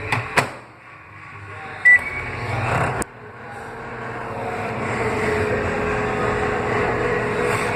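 Microwave oven being restarted: a short keypad beep about two seconds in, a sharp click a second later, then the oven running with a steady hum that builds up to the end.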